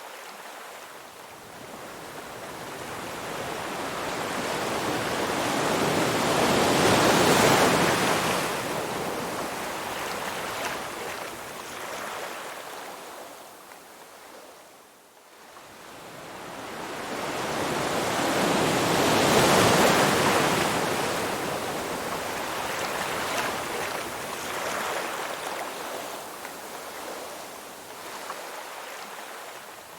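Ocean waves: two waves surge in and wash back, each building over several seconds, the first peaking about seven seconds in and the second about twenty, with a brief lull between them.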